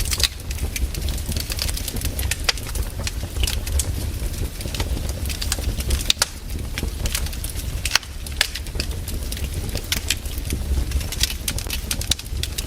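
Wood fire burning, with irregular crackles and sharp pops of the firewood over a steady low rumble.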